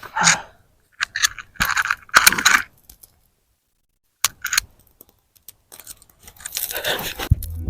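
Irregular crunching and rustling very close to the microphone, in a handful of short bursts with a pause in the middle. Music comes in right at the end.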